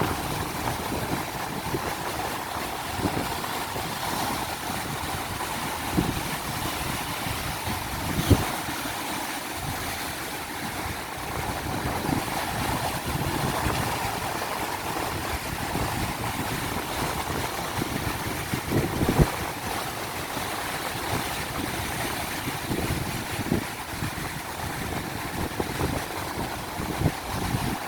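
Ocean surf breaking and washing in steady strong wind, with wind buffeting the microphone in sudden thumps a few times.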